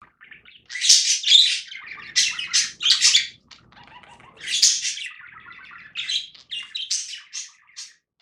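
Budgerigar chattering: a run of quick, high chirps and warbles in several loud spurts, with quieter chatter between them.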